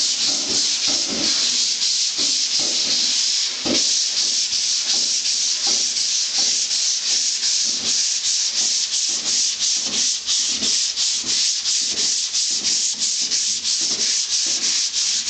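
Hand sanding block with 150-grit sandpaper dry-sanding polyester primer on a car door panel, in rapid, even back-and-forth strokes with a brief break a little under four seconds in.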